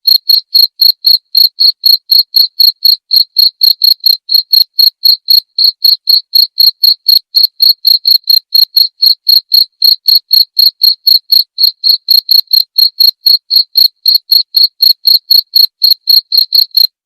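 Cricket chirping, a steady train of high, even chirps at about four a second, in a recording used as a master track for training songbirds.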